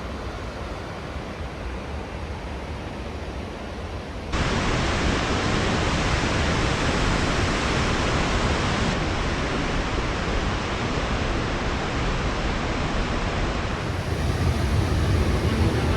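Steady rush of cascading water from a waterfall, jumping suddenly louder about four seconds in and staying loud.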